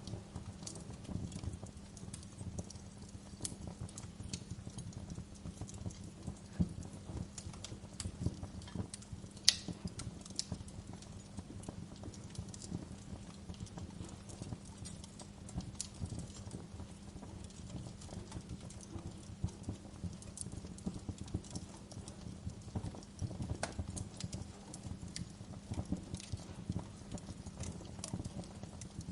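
Wood fire in a fireplace crackling, with many small irregular pops and snaps over a low rumble of burning, and one sharp, louder pop about a third of the way in.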